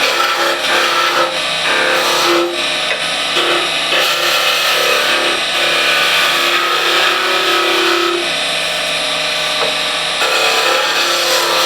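A dull turning tool cutting wood spinning on a lathe: a continuous hissing cut whose tone shifts as the tool moves.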